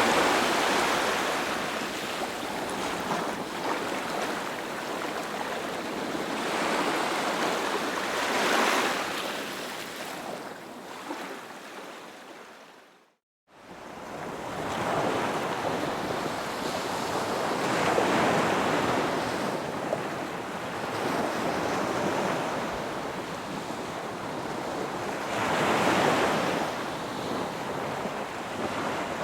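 Sea waves breaking on a beach: a steady surf hiss that swells with each breaker about every eight or nine seconds. The sound fades out to silence for about a second near the middle, then comes back.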